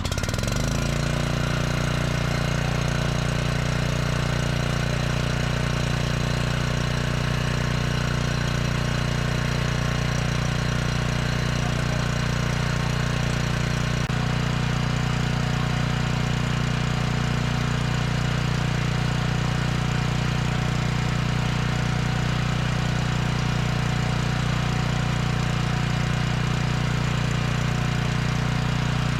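Small generator's engine running steadily off choke, settling into an even, constant run within the first second.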